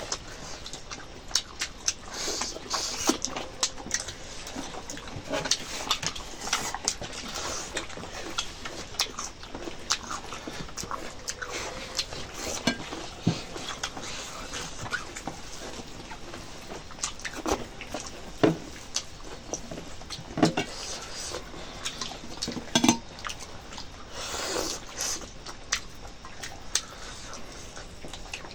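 Close-up mukbang eating sounds: wet chewing and lip-smacking on chicken curry with rice, full of short clicks and smacks at an uneven pace.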